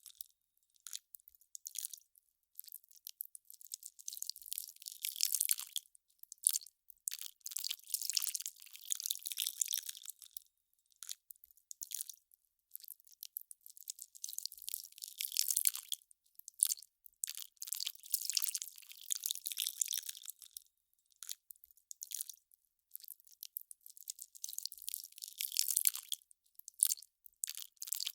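Melting ice crackling and fizzing in irregular clusters of fine, high-pitched crackles, each cluster lasting a second or a few, with short gaps between them.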